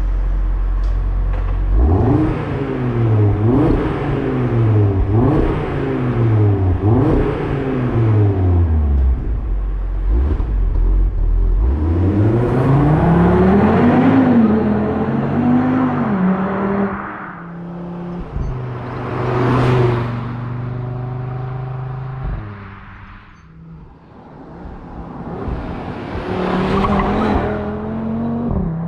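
Audi RS3's 2.5-litre turbocharged five-cylinder engine and exhaust. The engine rises and falls in pitch about four times in quick succession, then climbs higher once and drops back in steps to a steady lower note. It rises again near the end.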